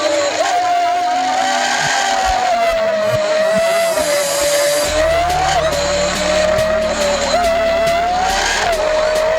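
Motorbike engine running under way on a steep, winding road, its whine rising and falling in pitch as the throttle changes. A low rumble joins about five seconds in.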